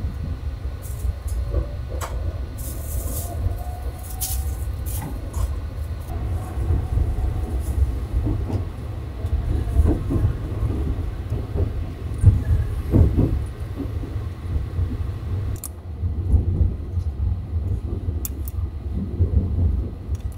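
Sunrise Izumo sleeper express (a 285-series electric train) running along the line: a steady low rumble with scattered clicks and knocks. A faint whine rises in pitch during the first few seconds.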